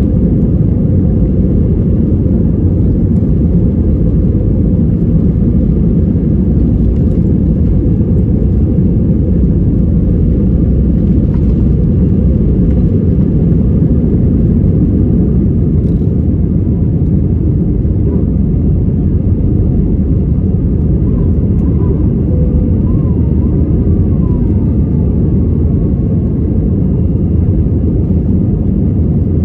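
Airbus A320 jet airliner heard from inside the passenger cabin during takeoff and climb: a steady, loud low rumble of engines and airflow.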